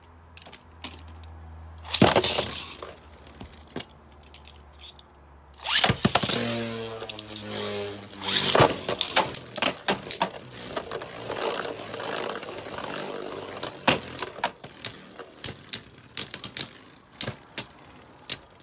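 Beyblade battle: about six seconds in, a top is launched with a whirring sound that falls in pitch. Then come rapid, irregular sharp clacks of the spinning plastic tops hitting each other and the stadium walls.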